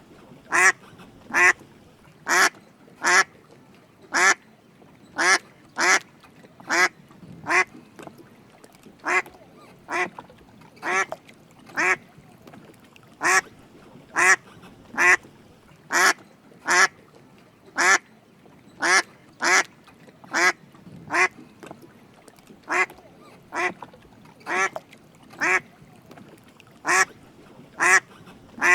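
Drake mallard duck quacking: short, separate calls repeated about once a second, often in pairs.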